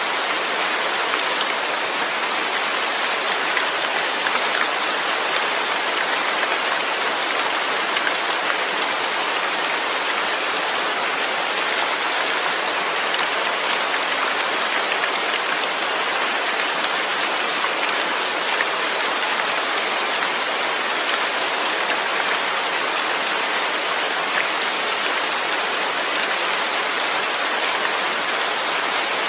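Steady rain falling, an even hiss of many drops with no pauses or single events standing out.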